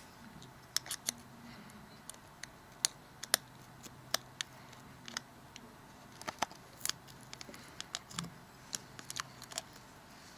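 Irregular light clicks and taps of small repair tools against a smartphone's frame and parts as small components are prised out and lifted away, over a faint steady hum.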